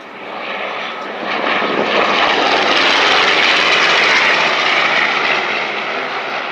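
Grumman TBM Avenger's radial piston engine on a low flyover, building up to a loud peak about three to four seconds in, then fading as it passes.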